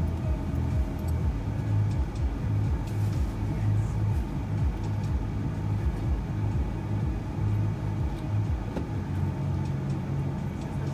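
Steady low rumble of a passenger van's engine and road noise heard from inside the cabin, with a few faint clicks.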